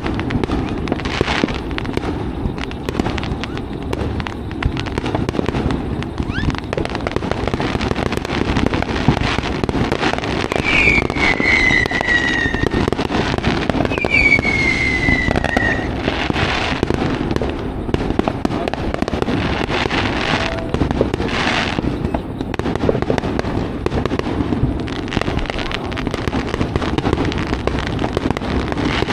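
Fireworks going off without pause, a dense run of popping and crackling, with two whistling fireworks near the middle whose whistles fall in pitch.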